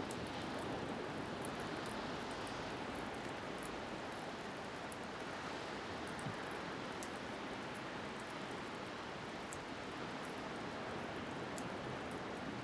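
Steady rush of wind and sea waves, with a wood campfire crackling: many small sharp ticks and one louder pop about five seconds in.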